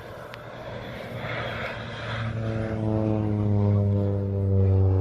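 Propeller-driven crop-dusting airplane making a low spraying pass: its engine drone swells louder from about two seconds in and slides slightly down in pitch as it goes by.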